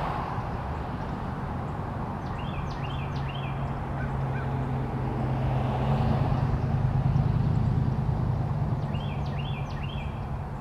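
A bird gives two short phrases of three quick high notes each, about six seconds apart, over a steady low hum that swells for a few seconds in the middle and is the loudest sound.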